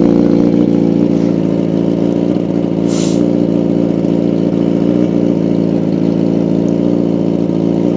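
2019 Kawasaki ZX-10R's inline-four engine idling steadily while it warms up.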